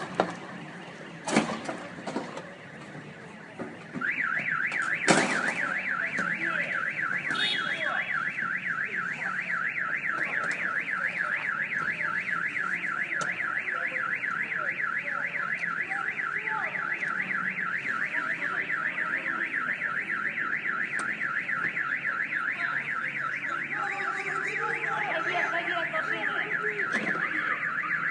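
Car alarm going off: a loud electronic tone warbling rapidly up and down, starting about four seconds in after a few sharp knocks.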